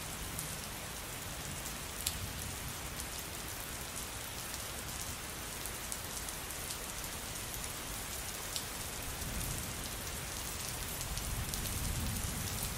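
Steady rain falling on a surface: an even hiss with a few sharp drop ticks. A low rumble of thunder swells in the last few seconds.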